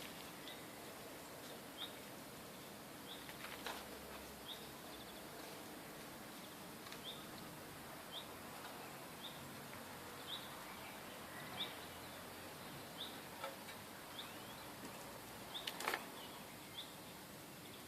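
A small bird chirping faintly and repeatedly, with short high chirps about once a second. There is a soft knock or two, one a few seconds in and one near the end.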